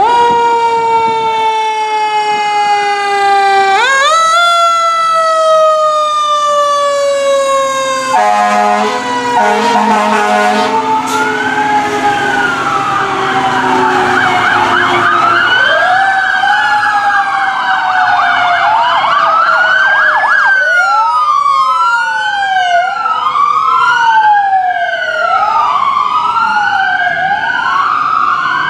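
Emergency-vehicle sirens from responding fire apparatus and a police car: one siren holds a long wail that slowly falls in pitch and is wound back up once about four seconds in. A burst of horn blasts comes about eight seconds in, then other sirens wail up and down, the sweeps growing faster and overlapping in the second half.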